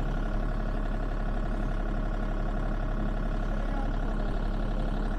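Sany SY35U mini excavator's diesel engine idling steadily, with no revving.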